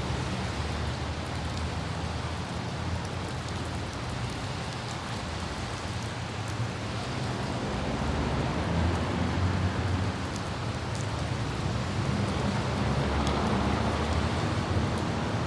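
Light rain with scattered droplet ticks over a steady low rumble of city traffic. The rushing swells louder about halfway through and again near the end.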